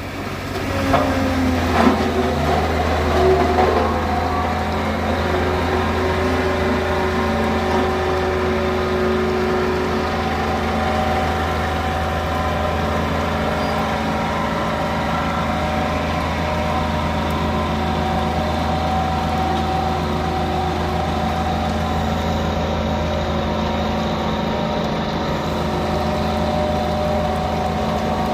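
Heavy vehicle engine running steadily at an even pitch, with a few knocks in the first couple of seconds.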